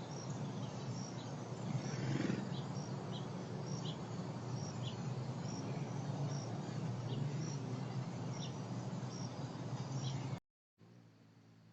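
A steady low rumble with a short high chirp repeating about once a second, a small bird calling. The sound cuts out abruptly near the end.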